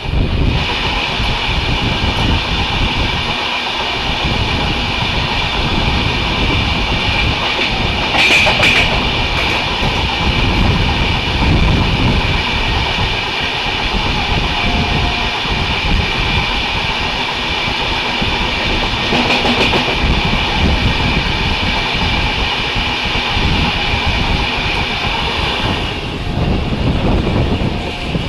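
Express train running at speed, heard from an open coach door: wheels rumbling and clattering over the rails, with another train running past close on the next track. There are brief louder clatters about 8 and 19 seconds in.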